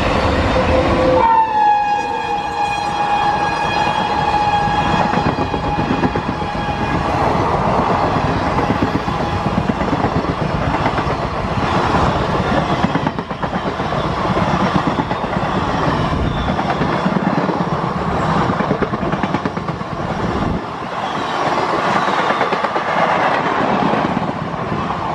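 WAP-7 electric locomotive of a fast passenger express sounds a long horn blast as it passes, starting about a second in, its pitch dropping as it goes by before the note fades. The coaches then rush past close by, their wheels clattering rhythmically over the rail joints.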